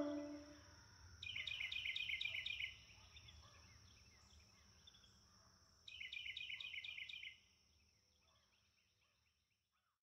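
The last of the music dies away, then a bird sings two short trills of quick, repeated down-slurred notes, each about a second and a half long and a few seconds apart, over a faint steady high-pitched tone.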